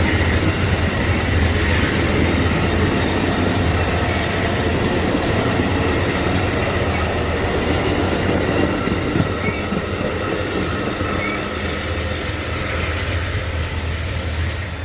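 Amtrak Northeast Regional passenger train rolling past on the rails, a steady loud rumble that eases slightly in the last few seconds.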